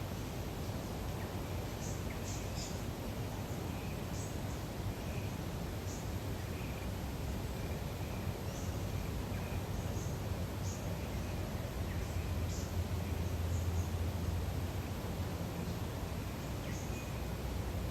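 Lakeside nature ambience: a steady low rumble and hiss, swelling slightly about twelve seconds in, under many faint, scattered short bird chirps and calls.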